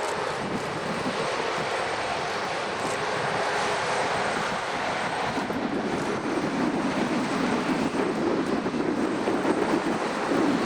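Airliner engines passing at an airport: a steady, noisy rush that grows louder over the second half.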